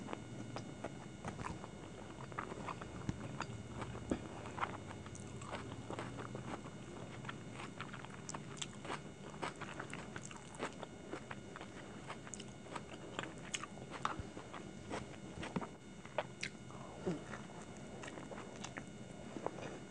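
Close-miked chewing of stir-fried hakka noodles, then biting into and chewing a fried chicken dumpling, with many short clicks of mouth and teeth throughout.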